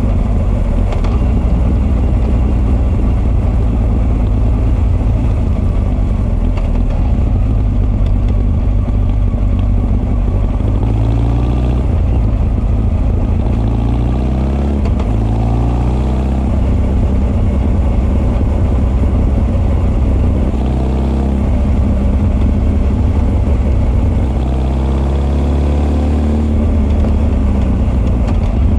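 Honda CB1300 SF's carbureted inline-four engine under way, its Keihin FCR41 intake and r's gear Wyvern exhaust both heard. The note holds steady for about the first ten seconds, the revs rise and fall several times in quick succession around the middle, and it settles to a steadier note with a few smaller changes near the end.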